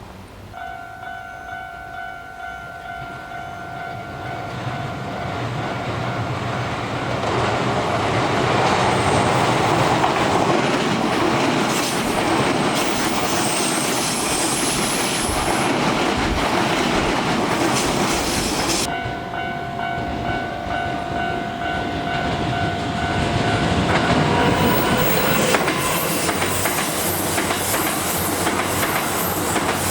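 Keikyu 1000-series electric trains passing one after another, wheels clattering over the rail joints. The first pass builds from about four seconds in and is loudest around ten seconds; a second pass comes in near the end. A steady two-tone ringing, typical of a railway level-crossing bell, sounds at the start and again from about nineteen seconds in.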